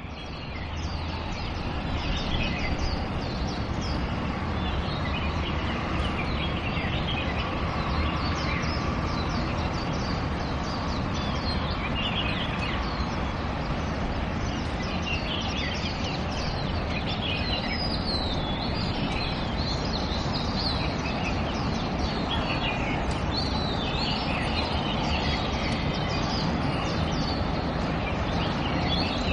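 Birds calling with many short, scattered chirps and chatters over a steady low background noise.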